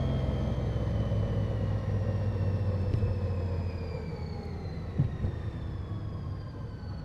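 A 2015 Honda Goldwing GL1800's flat-six engine running on the move, its note falling slowly in pitch as the bike slows, and getting quieter after about four seconds.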